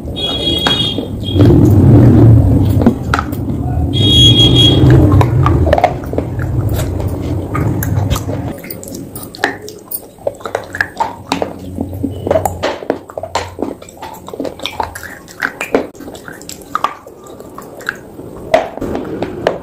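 Close-miked biting and chewing of soft, wet bars: a dense, mushy chewing for the first half, then many sharp little crunches and clicks.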